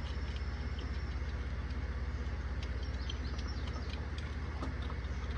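An engine idling steadily, a low drone with a fast even pulse. Faint light clicks and a few high chirps come through about three seconds in.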